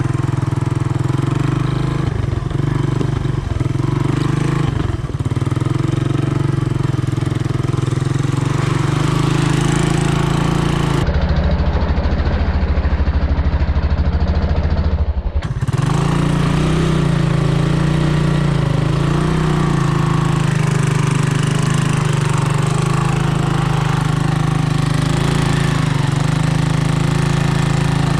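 Honda ATC 200M three-wheeler's single-cylinder four-stroke engine running steadily while riding. For about four seconds in the middle the sound goes dull and boomy before returning to normal.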